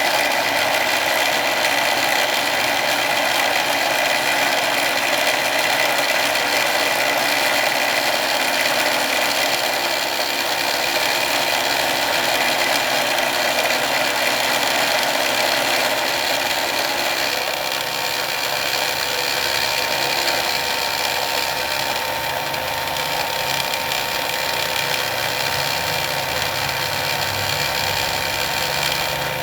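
775 brushed DC motor running steadily on a 21 V battery during a performance test: a continuous high electric whine with a rough mechanical rattle. About two-thirds of the way through it gets slightly quieter and a lower hum joins in.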